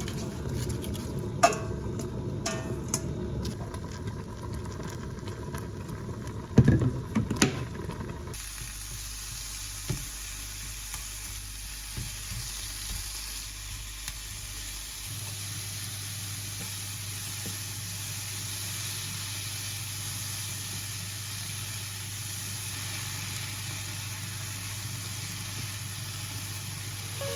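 Food frying in a pan. For the first several seconds utensils knock and clatter against it. After a cut, there is a steady sizzle over a low hum.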